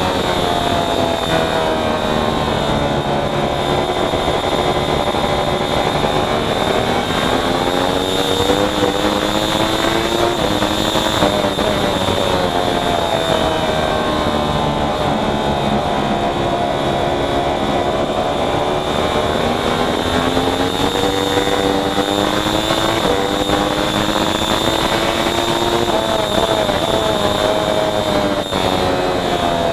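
Racing motorcycle engine at speed, its revs climbing and falling several times as it accelerates and slows, with sudden jumps in pitch at the gear changes.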